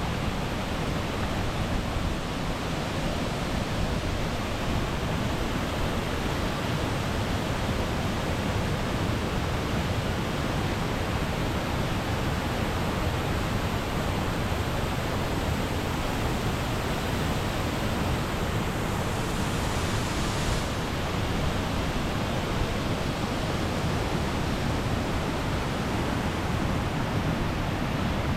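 Waterfall: a steady rush of falling water, an even hiss without any break.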